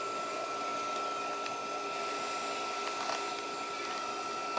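BioLite CampStove's built-in fan running steadily, a high whine over the rushing hiss of its forced-draft twig fire, with a few faint crackles.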